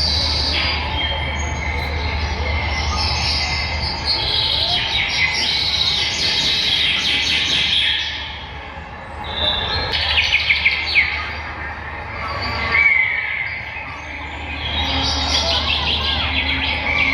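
Many overlapping bird chirps and calls from an exhibit of robotic birds, with a quick run of chirps about ten seconds in. Beneath them runs a steady low hum that cuts out twice for a second or two.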